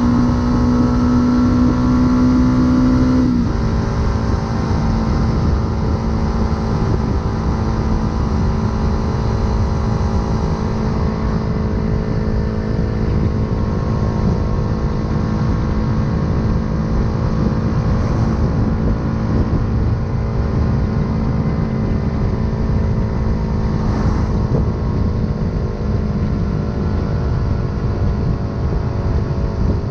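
Yamaha R125's single-cylinder four-stroke engine, breathing through an aftermarket full exhaust, pulling under load with its pitch slowly rising. About three seconds in the pitch drops sharply, and the engine then runs steadily at a lower pitch.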